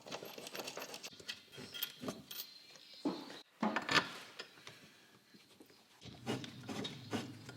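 Irregular knocks, clicks and clatter, with a louder cluster of knocks partway through and a denser rumbling stretch near the end, typical of hands-on workshop work on a car.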